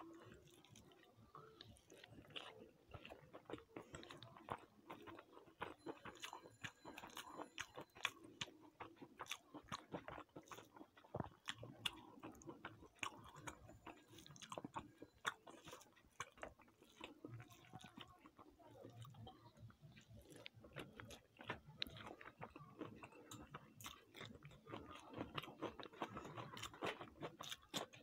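Close-up mouth sounds of a person chewing and biting food: a faint, continuous run of small wet clicks and crunches.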